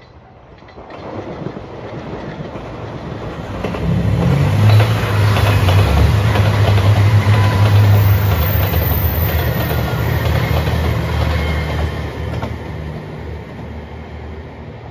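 JR Shikoku 2700 series diesel limited express train passing: a steady low engine hum with wheels clattering over the rails. It grows louder over the first few seconds, is loudest in the middle, and fades as it draws away.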